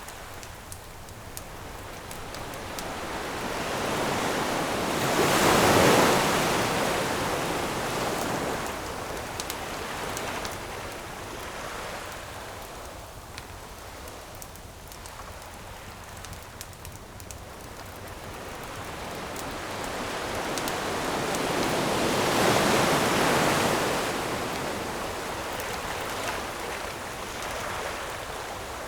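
Ocean waves breaking and washing on a beach, with two big waves cresting about six seconds in and again near 23 seconds. A campfire crackles with light scattered pops over the surf.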